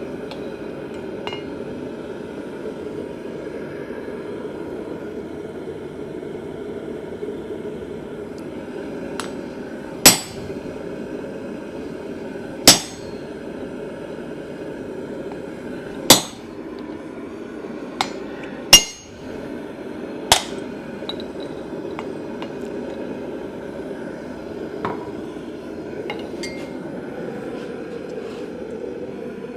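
About six single sharp hammer blows on steel, spaced a few seconds apart and ringing briefly, starting about a third of the way in and stopping about two-thirds through. They sound over a steady low rushing noise.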